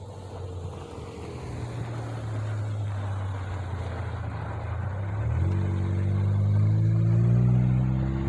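A car engine running close by with a steady low hum, then revving up about five seconds in, louder and slowly rising in pitch as it accelerates.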